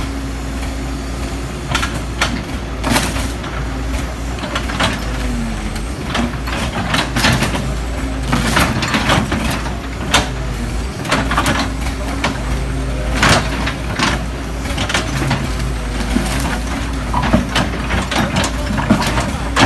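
Diesel engine of a working excavator running steadily, with frequent sharp metallic clanks and knocks from heavy machinery being moved.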